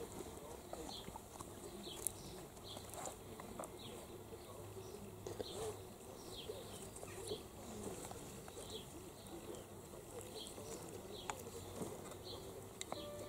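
Quiet outdoor ambience with a small bird giving short, falling chirps about once a second, and occasional soft clicks and rustles.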